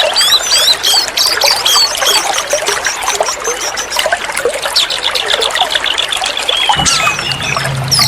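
Oriental magpie-robin (kacer) song: a dense, fast run of chirps, trills and whistled glides over a hissing background. A low hum comes in about seven seconds in.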